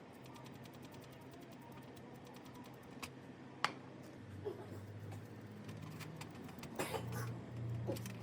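Scattered light clicks and knocks of small hard objects being handled, the sharpest about three and a half seconds in and a cluster of them near the end, over a faint low hum.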